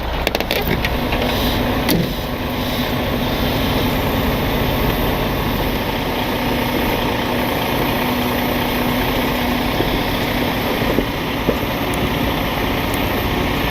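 Truck engine running steadily, with a faint constant hum over a dense, even noise.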